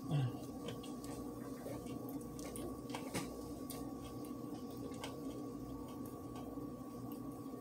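Chewing a crispy fried chicken sandwich on a toasted bun: scattered soft crunches and mouth clicks over a steady electrical hum. A brief low voice sound comes at the very start, and the sharpest crunch falls about three seconds in.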